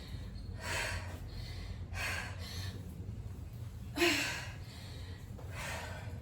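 A woman breathing hard while exercising: four heavy breaths, about one every second and a half, with a short voiced grunt on the breath about four seconds in.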